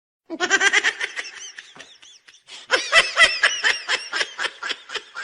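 High-pitched laughter in quick, rapid bursts, starting just after a dead-silent edit. It breaks off briefly about two seconds in, then resumes louder.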